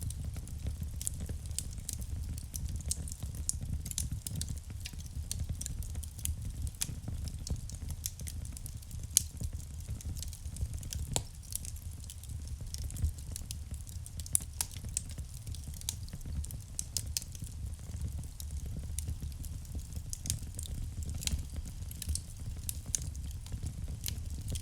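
Wood fire burning in a fireplace: a steady low rumble of flames under constant irregular crackling, with a few louder pops.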